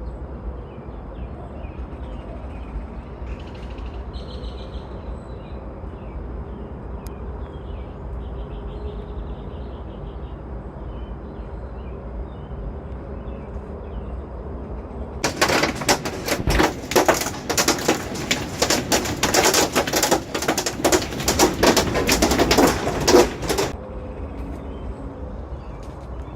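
Faint bird chirps over a low, steady rumble. About fifteen seconds in, a loud, rough, crackling rustle starts and runs for about eight seconds, then stops.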